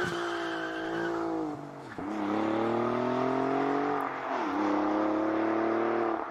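A car engine accelerating hard through the gears. The engine note climbs, drops at an upshift about two seconds in, climbs again, drops at a second upshift about four and a half seconds in, then climbs once more.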